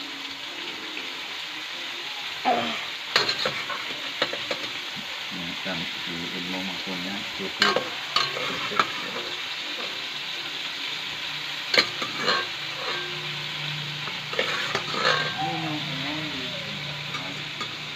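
Meat and garlic sizzling as they fry in a wok, stirred with a metal ladle that scrapes the pan, with a few sharp knocks of the ladle against the wok.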